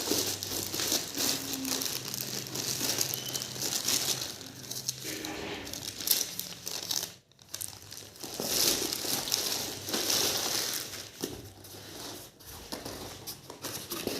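Phone-box packaging being handled and unwrapped: continuous crinkling and rustling of wrapping, with a brief break about seven seconds in.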